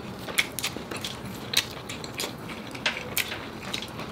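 Close-up chewing of crispy air-fried pork belly (lechon kawali): sharp, irregular crunches of the crackling skin, several a second.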